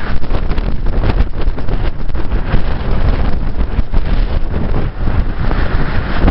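Storm-force wind buffeting the microphone: loud, gusty rumbling wind noise, easing briefly about five seconds in.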